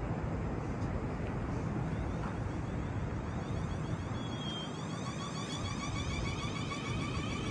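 Train running past: a steady rumble, joined about four seconds in by a high whine of repeating rising tones.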